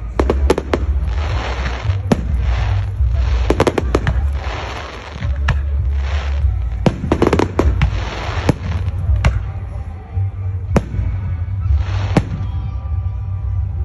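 Fireworks going off: a run of sharp bangs and crackling clusters with hissing between them, thinning to a few single bangs in the last few seconds.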